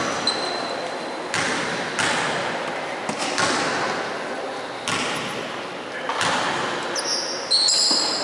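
Basketball game sounds echoing in a gym: a ball bouncing on the hardwood court and shoes moving, with short high squeaks near the end and voices in the background.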